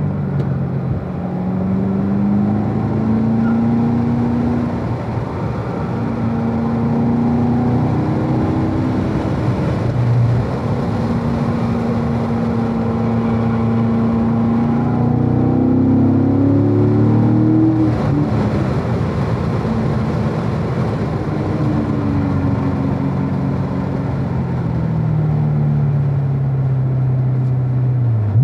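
Chevrolet Corvette V8 engine pulling in third gear on a road course, its revs rising and falling through the corners. The revs drop sharply near the end as the car is shifted to neutral. Heard from inside the cabin.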